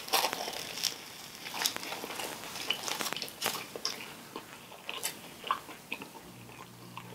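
A person biting into and chewing a Subway sweet onion steak teriyaki sub, with irregular mouth clicks and crunches.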